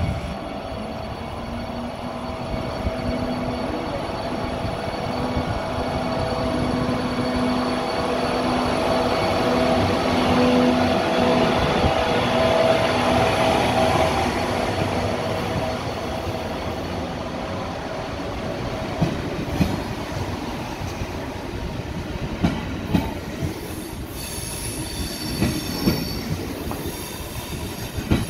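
KTX-Sancheon high-speed train pulling into the platform: a steady whine from its running gear, with wheel and rail noise, swelling to its loudest about halfway through as the front cars pass and then fading as it slows. In the second half, sharp clicks and brief high squeals come as the train creeps toward a stop.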